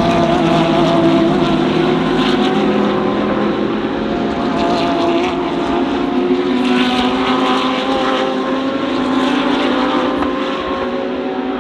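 Several DTM GT3 race cars' engines running at speed on track, their engine notes overlapping at different pitches that rise and fall slowly.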